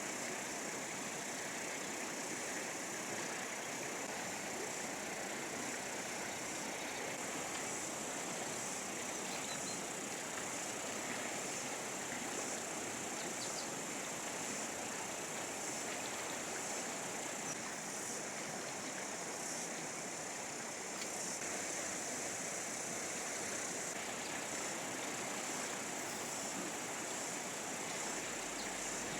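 Steady rushing of a fast, turbulent river, an even hiss with no breaks.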